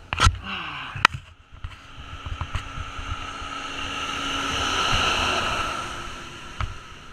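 A vehicle passing on the road: its tyre and engine noise swells to a peak about five seconds in and then fades. Two sharp knocks come near the start.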